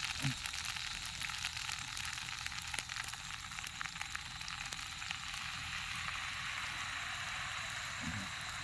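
Food frying in spiced masala in a small kadai: a steady sizzle with faint crackles, the masala drying out and starting to catch on the pan.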